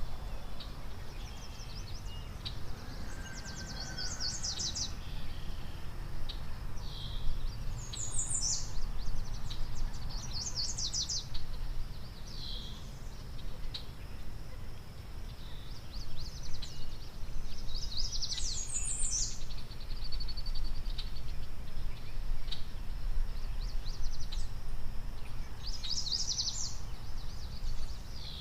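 Birds singing: short, high, quickly trilled phrases repeated every few seconds, over a steady low rumble.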